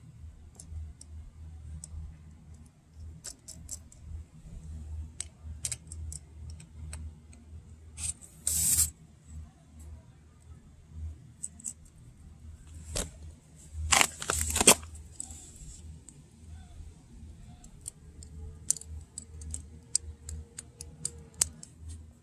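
Light metallic clicks and rattles from small parts being handled while a tire-pressure sensor is fitted onto a valve stem. Two short, louder noisy bursts come about a third of the way in and again past the middle.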